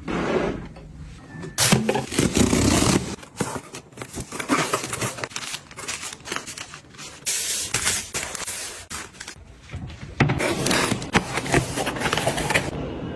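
Household items being handled in a kitchen: a busy run of scrapes, rubbing, clicks and taps that come and go in short bursts.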